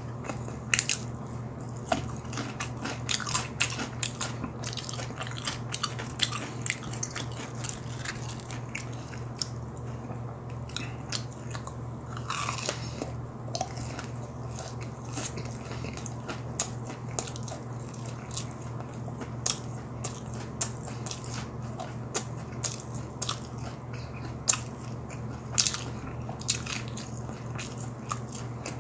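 Close-up mouth sounds of a person chewing crispy boneless fried chicken: many short crunches and wet chewing clicks, irregular, over a steady low hum.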